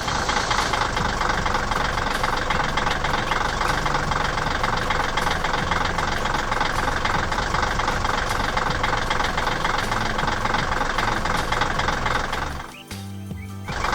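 Excavator engine running steadily, cutting off about a second before the end.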